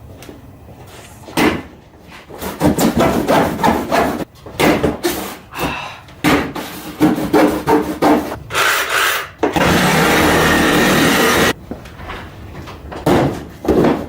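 Cardboard box being handled and opened: a string of scrapes, rubs and knocks, with a loud steady rasp lasting about two seconds around ten seconds in.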